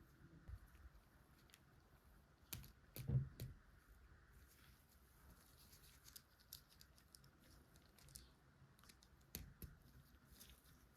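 LEGO pieces being handled and pressed together: scattered small plastic clicks and taps, with the loudest cluster of knocks about three seconds in and another couple near the end.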